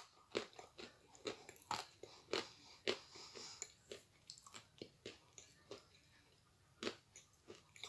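Faint crunching and chewing of a piece of Astana Ideal edible clay in the mouth: quick irregular crunches that thin out after about four seconds, with one sharper crunch near the end.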